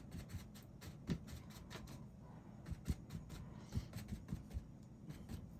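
A 2-inch paint brush tapping paint onto a canvas: soft, irregular taps over a quiet room background.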